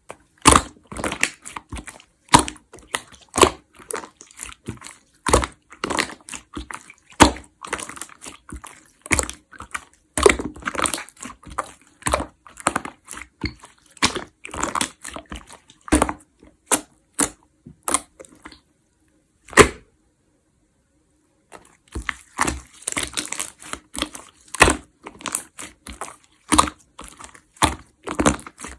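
Hands squishing and pressing a large batch of jiggly slime, making a dense, irregular run of wet pops and crackles. Near the two-thirds mark the sound stops for about three seconds, broken by one sharp pop.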